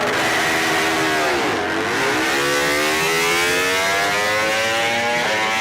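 MotoGP race motorcycle engine at high revs. Its pitch drops sharply about a second and a half in as the bike brakes and downshifts, then climbs steadily as it accelerates out, with a shift near the end.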